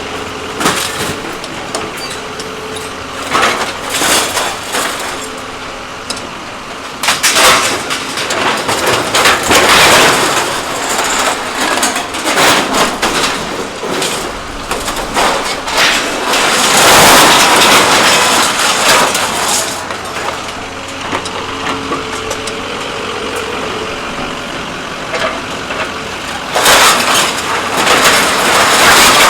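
Truck engine running steadily under loud, irregular bursts of metal clanking and scraping, the longest lasting several seconds a little past the middle.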